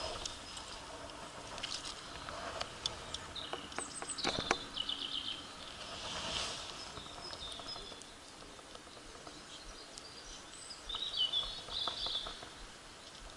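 Small birds chirping in short trills, once about four seconds in and again near the end, over steady outdoor background noise. Scattered clicks and rustles come from handling close by.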